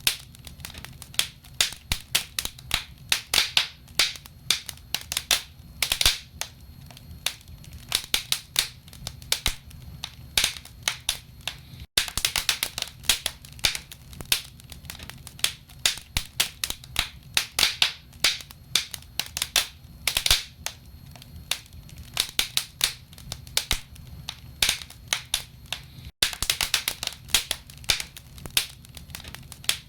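Burning firewood in a fireplace crackling, with frequent irregular sharp pops and snaps over a low steady rumble. The sound cuts out for an instant twice.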